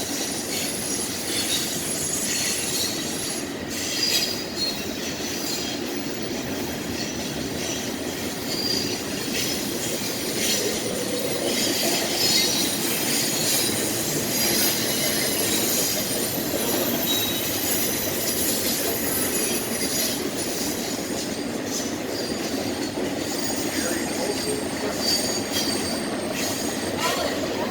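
Intermodal freight train rolling past, with continuous rumble and clatter of cars and wheels and repeated high-pitched wheel squeal against the rails.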